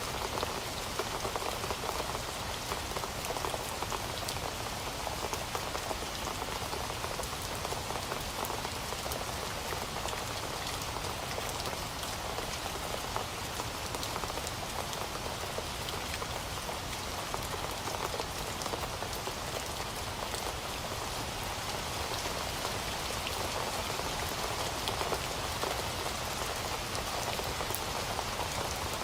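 Heavy rain falling steadily, a dense even hiss of many drops hitting a surface with fine individual drop patter.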